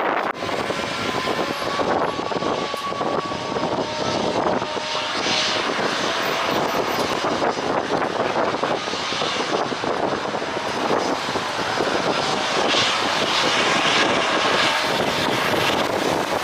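Jet airliner engines running with a steady rushing roar and a faint whine, mixed with gusty wind buffeting the microphone.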